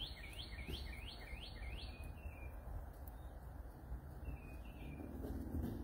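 A songbird singing a run of quick rising whistled notes, about three a second, that stops about two seconds in; a few fainter notes follow later.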